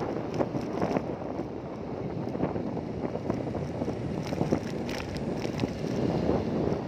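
Wind buffeting the microphone over a steady rumble of travel, with a few sharp clicks and knocks.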